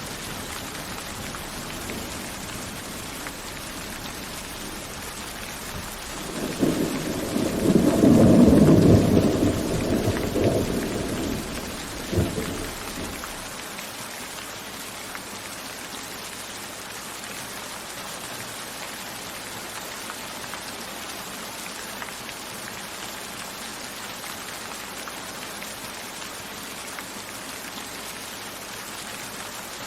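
Steady rain falling, with a roll of thunder that swells about six seconds in, peaks, and ends in a sharp crack a few seconds later; after that only the rain continues.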